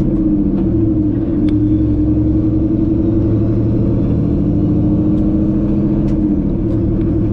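Semi-truck's diesel engine running steadily under way, heard from inside the cab, its pitch dipping briefly about a second in and again near the end.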